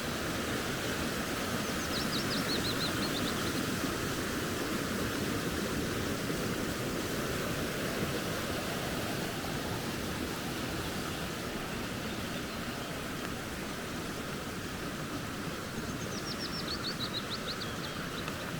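Steady rushing of a flowing creek. A small bird gives a quick, high trill that falls in pitch, twice: about two seconds in and again near the end.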